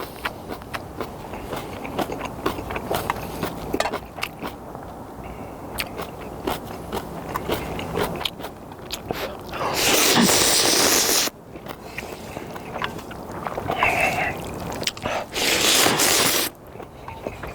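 Close-miked eating of instant ramyeon noodles: chewing with many small wet clicks and smacks. Two long, loud slurps of noodles come about ten seconds in and again near the end.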